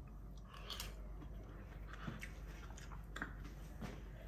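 Faint chewing of a spoonful of soft rice-and-lentil khichdi with diced lamb, with a few soft mouth clicks about a second apart.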